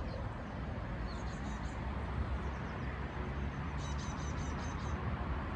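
A small bird singing two short phrases of quick, high repeated notes, about a second in and again about four seconds in, over a steady low outdoor rumble.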